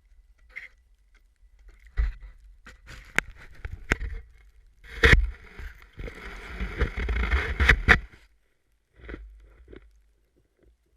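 Wind rumbling on a GoPro's microphone, with sharp knocks and a scraping rush of noise, loudest between about five and eight seconds in.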